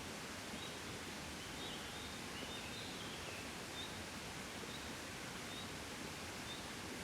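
Soft, steady wind, an even hiss with no gusts, with a faint short high chirp repeating about once a second.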